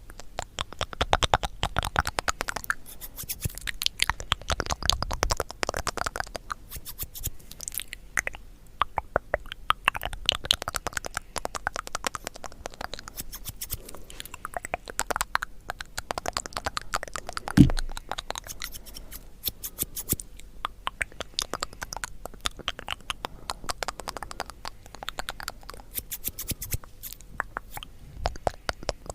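Dense, close-miked crackling, crunching and scratching in quick irregular clicks, with one low thump about two-thirds of the way through.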